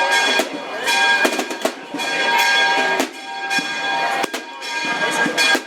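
Church bells ringing, struck again and again so that their tones hang on, with several sharp cracks among them.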